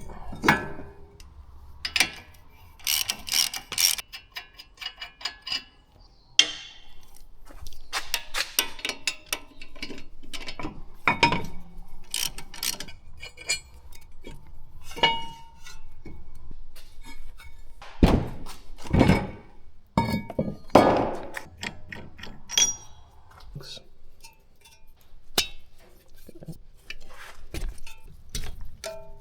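Metal hand tools clinking and knocking on a car's front brake and suspension parts during removal of the brake caliper bracket: scattered clicks and clinks in short clusters, with a few heavier knocks about two-thirds of the way through.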